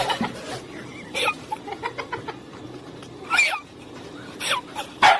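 A bird giving short calls, four or so spaced over a few seconds, with faint chirps in between.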